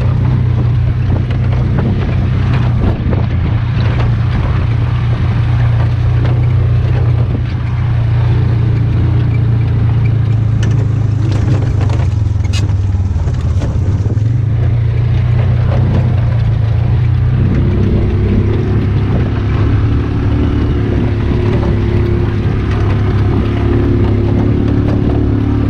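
Polaris utility vehicle's engine running steadily while driving, its pitch shifting slightly a couple of times.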